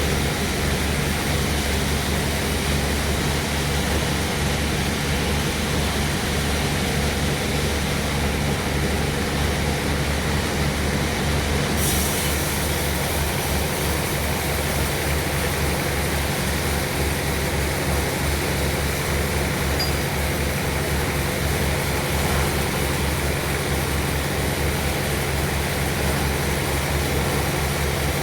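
Sawmill machinery running steadily: an engine hum with a fast, even pulsing beat under a broad mechanical noise. About twelve seconds in, a brighter hiss joins and carries on.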